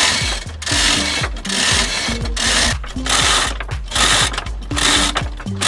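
Ratcheting winch hauling the boat, its clicking and grinding coming in regular surges a little more than once a second.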